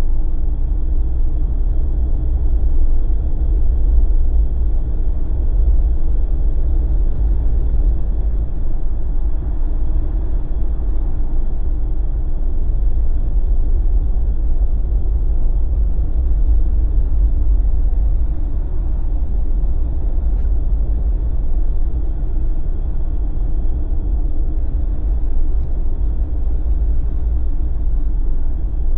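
Steady low rumble of a Jeep being driven, engine and tyre noise heard from inside the cabin.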